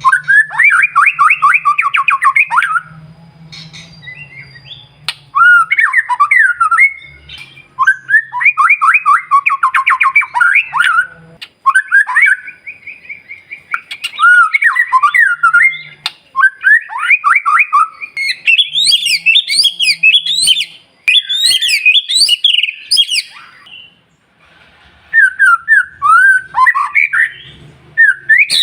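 White-rumped shama singing loud phrases of a few seconds each, made of fast trilled and warbling notes, with short pauses between. From about two-thirds of the way through, the phrases climb higher and become more varied.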